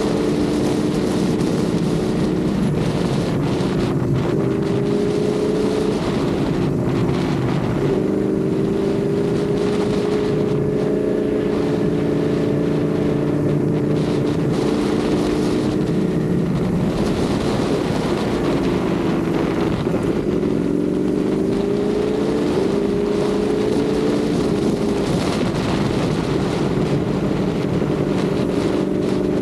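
Ducati Panigale V4's V4 engine running under way, its pitch steady for long stretches and falling then climbing again three times, with wind rushing over the microphone.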